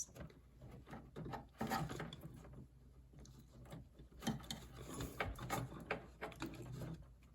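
Plastic water tubing being worked into the port of a refrigerator water inlet valve by hand: scattered faint clicks and knocks of plastic parts.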